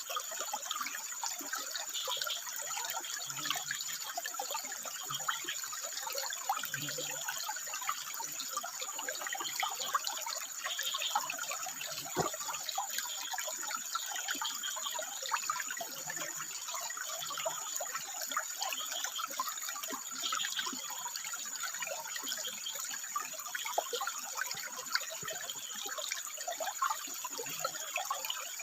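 Water running and trickling over rocks, a steady splashing flow.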